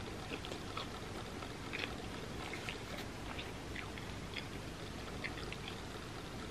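Close-miked chewing of pizza: many small, wet mouth clicks and crackles scattered over a steady low hiss.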